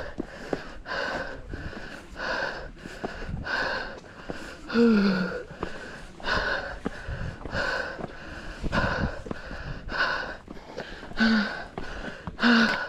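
Hard, rhythmic breathing of a runner climbing a steep trail, about three breaths every two seconds. A few exhales carry a short voiced groan, one about five seconds in and two near the end. The breathing is the sound of heavy exertion on an uphill run.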